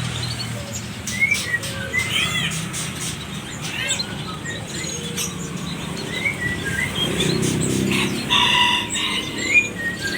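Songbirds chirping and whistling: many short, quick calls scattered through, with a harsher rasping call a little before the end.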